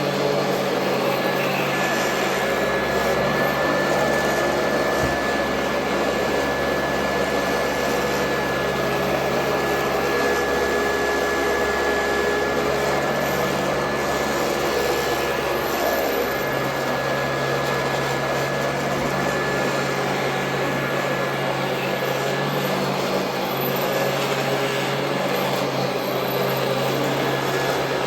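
Royal Model 2008 upright vacuum cleaner running steadily, its motor noise carrying a thin high whine.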